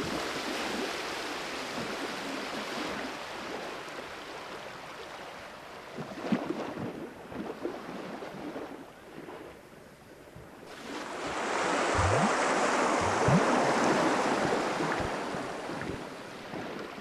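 Sea waves washing in with a rushing hiss, swelling into a bigger surge about eleven seconds in and then easing off.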